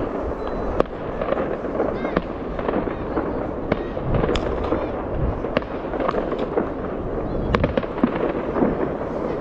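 New Year fireworks and firecrackers going off: sharp cracks and bangs at irregular intervals, roughly one a second, over a dense, continuous din of further bursts and crowd voices.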